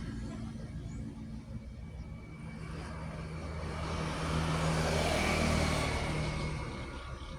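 Heavy truck driving past on the road. Its engine drone and tyre noise build to a peak about five seconds in, then fade.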